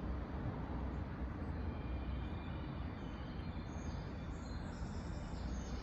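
Steady low outdoor rumble, with faint high bird chirps joining about halfway through.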